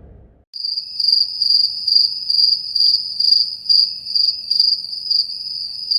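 Crickets chirping: a steady high-pitched trill that pulses in quick chirps, starting about half a second in and cutting off suddenly. It is the stock 'crickets' sound effect used to mark an awkward silence.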